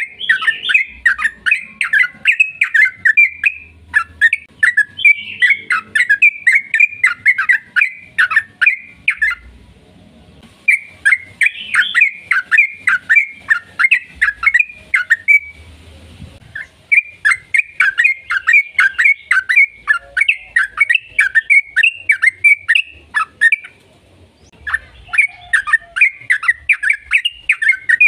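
Yellow-vented bulbul (trucukan) singing long runs of rapid, chattering notes, in four long bouts broken by short pauses.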